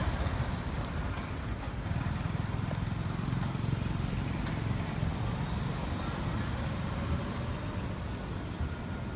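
Steady low rumble of road traffic passing nearby.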